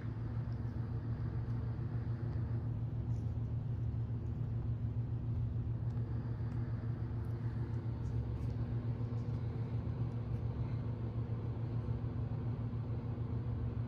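Hunter Builder ceiling fan running steadily: a low motor hum with a fast flutter as the blades turn, over a faint rush of air.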